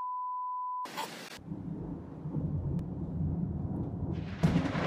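A steady one-pitch censor bleep lasting about a second, then a low rumble that slowly builds. Near the end a louder rushing noise comes in suddenly.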